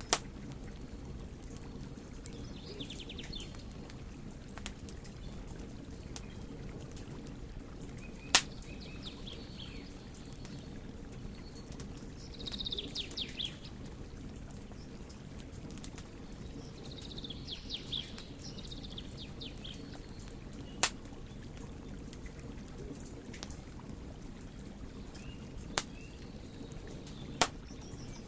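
Wood fire burning with a steady low rush, broken by sharp crackling pops, about five loud snaps spread through. Birds chirp in short bursts in the background a few times.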